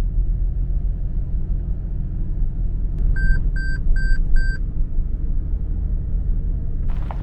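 A loud, steady low rumble. Four short, high electronic beeps come about half a second apart near the middle. The rumble cuts off abruptly at the end.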